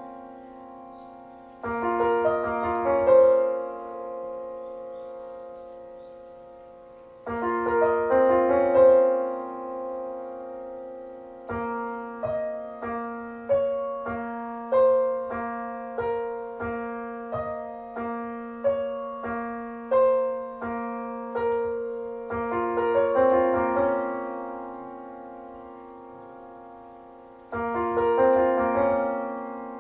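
Slow, gentle solo piano music: chords struck and left to ring and fade, with a middle passage of single notes played about two a second.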